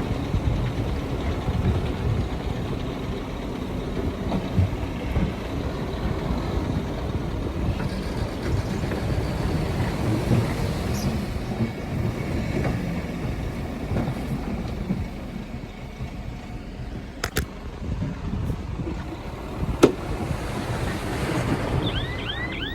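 Heavy diesel earthmoving machinery running, a low uneven rumble with wind noise on the microphone. Two sharp clicks come late on, and a quick run of short chirps starts near the end.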